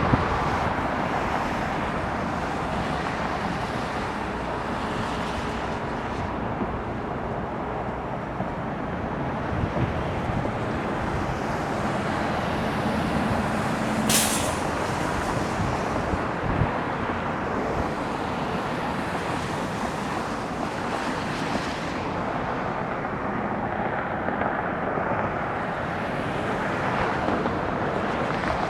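Bombardier CRJ-900 regional jet's two rear-mounted turbofan engines landing: a steady jet engine noise, with a brief sharp hiss about halfway through.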